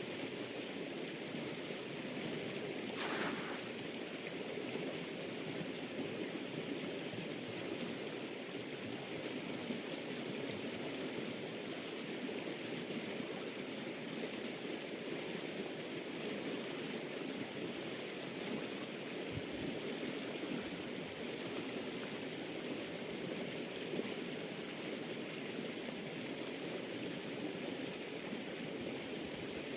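Water flowing steadily, a continuous rushing like a stream, with a brief click about three seconds in.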